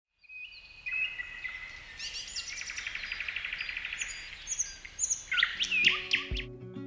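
Small birds singing and chirping, with whistled notes and a rapid trill. Acoustic guitar music begins near the end.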